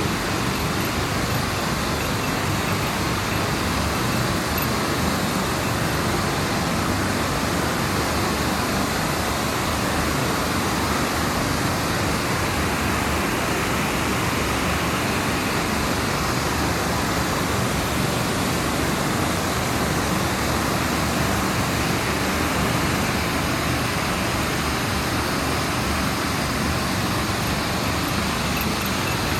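Rushing water: a steady, unbroken roar with no rises or passing swells.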